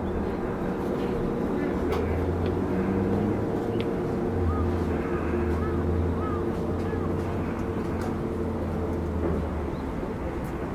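Outdoor ambience of an engine running at a steady pitch with faint voices. From about halfway in, short arching chirps repeat roughly twice a second over it.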